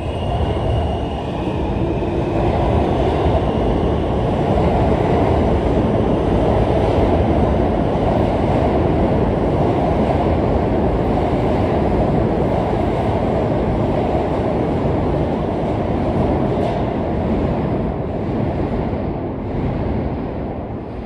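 R160 subway train running on the track, a steady loud rush of wheels on rail and motors that builds up at the start and fades over the last few seconds.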